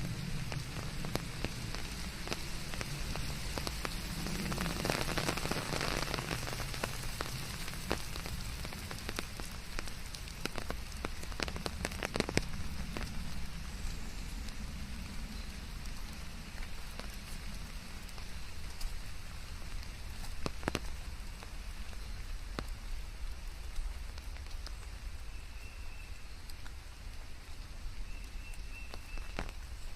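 Steady rain falling on a surface, with many separate drop taps over an even hiss and a low rumble underneath; the rain is heavier about five seconds in. A few short, faint high tones sound near the end.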